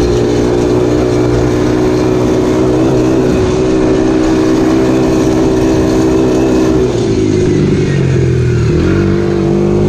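Dirt bike engine running at steady throttle, then easing off and dropping in pitch about seven seconds in, and settling at a lower, steady speed near the end.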